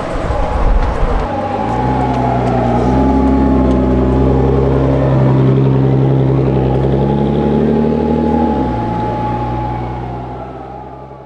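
A car's engine and exhaust running steadily, its pitch shifting about eight seconds in, then fading away near the end.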